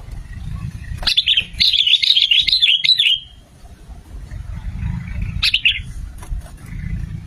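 Sooty-headed bulbul (kutilang) singing: a bubbly phrase of quick rising-and-falling notes starting about a second in and lasting about two seconds, then a short phrase of a few notes a couple of seconds later, over a low rumble.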